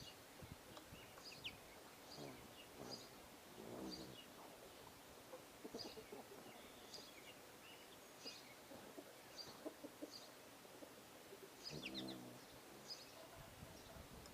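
Small birds chirping faintly: short high chirps repeated about once a second, with a few lower, duller sounds now and then.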